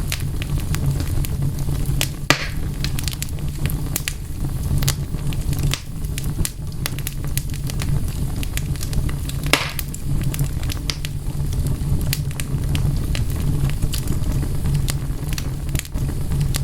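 Wood fire crackling steadily, with a constant low rumble of burning and many small snaps, and two louder pops, one about two seconds in and one near the middle.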